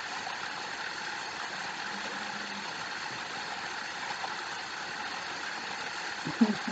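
Waterfall: steady rushing, splashing water. Near the end there is a brief low hooting call.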